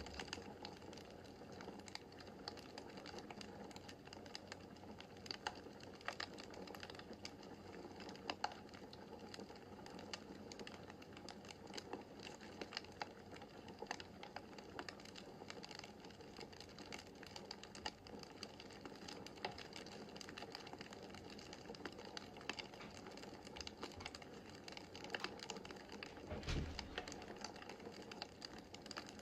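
Wood fire crackling in a fireplace: irregular sharp pops and snaps over a soft steady hiss, with a low thump near the end.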